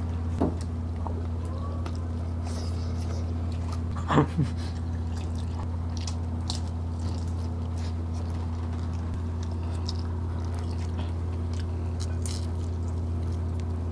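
Two people biting and chewing grilled chicken and fried spring rolls, with scattered small wet smacks and clicks over a steady low hum. A short vocal sound comes about four seconds in.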